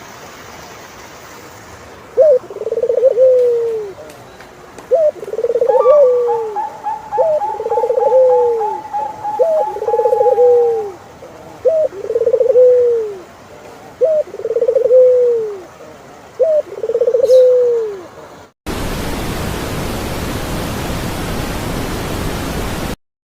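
Turtle dove cooing: seven purring calls at an even pace, about two seconds apart, each a short high note dropping into a rolling, falling purr. Another bird gives a rapid steady trill higher up partway through. The doves are followed by a steady hiss, about four seconds long, that cuts off abruptly.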